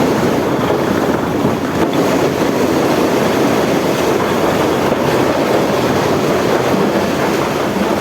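Heavy road-paving machinery working, a dump truck and asphalt paver with their diesel engines and moving parts. It makes a loud, steady, dense mechanical din with no let-up.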